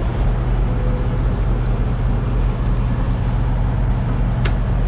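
Semi truck's diesel engine idling with a steady low hum. A brief click comes near the end.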